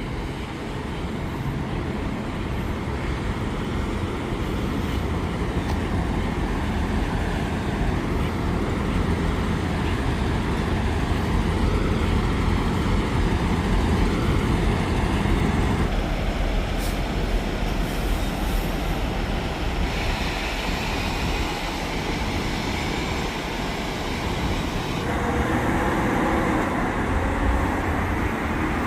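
Steady low rumble of heavy vehicles: diesel semi trucks idling and moving around a truck stop, with road traffic. The background shifts abruptly a few times.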